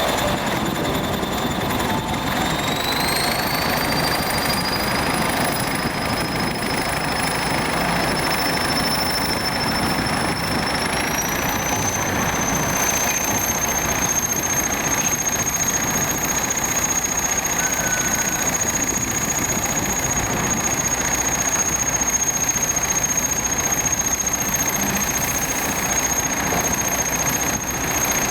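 Engine of an old Soviet EO-5111B excavator with a pile-driving rig, running steadily with a dense clatter. A thin high whine over it rises in pitch twice, about three seconds in and again about eleven seconds in.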